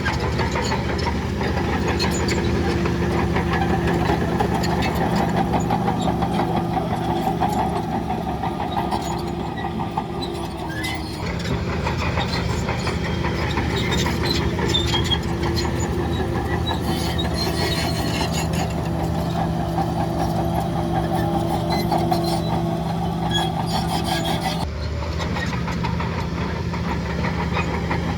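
Heavy diesel engine of earth-moving machinery running steadily, with metallic clanks and rattles over it. The engine note shifts abruptly twice, about eleven seconds in and near the end.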